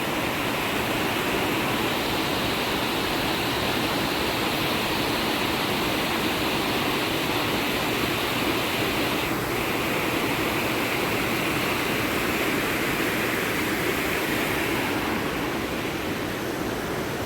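Roadside waterfall rushing steadily, its flow swollen by a night of heavy rain.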